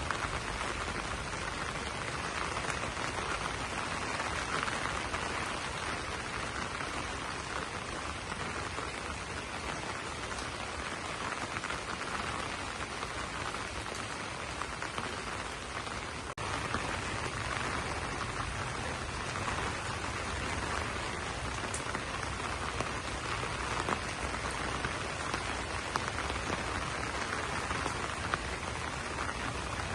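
Steady rain falling on broad banana leaves, an even patter of drops with a brief dip in level about halfway through.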